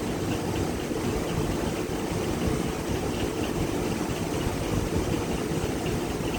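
Steady rushing noise with a low rumble from an electric fan running in the workshop.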